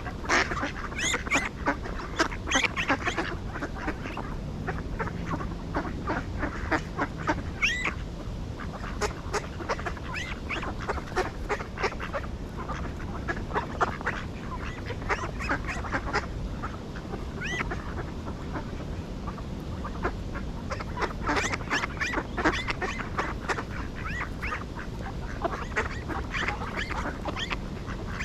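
Ducks quacking, many short calls throughout, busiest at the start and again from about 21 seconds in, over a steady low rumble.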